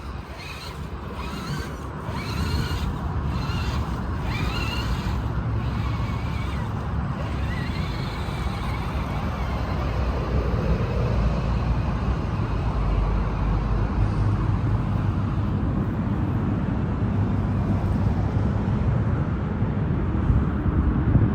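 Wind rumbling on the microphone, a steady low buffeting, with a faint whine wavering up and down in pitch during the first several seconds.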